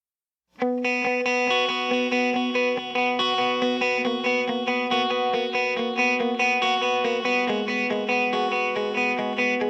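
Guitar music with quick, evenly picked notes, starting about half a second in.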